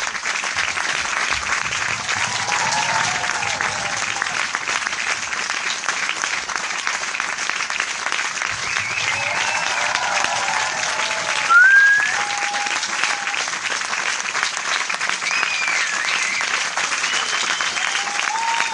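Large audience applauding steadily with dense clapping, a few voices calling out over it, and a short rising whistle a little past halfway that is the loudest moment.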